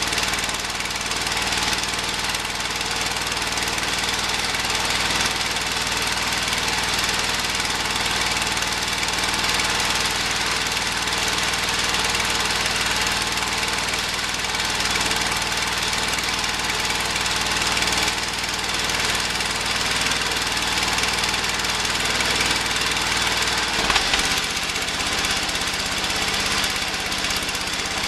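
Kohler K301 12 hp single-cylinder engine of a Ford LGT120 garden tractor running steadily after a hard start, its sound changing abruptly near the end. The engine starts hard and no longer runs well enough to mow; the owner suspects a weak spark, with valve trouble after a piston replacement also in question.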